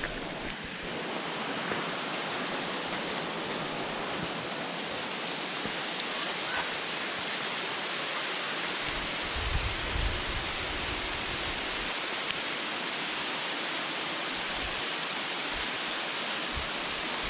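Steady rushing of a nearby waterfall, a constant hiss of falling water, with wind buffeting the microphone briefly about halfway through.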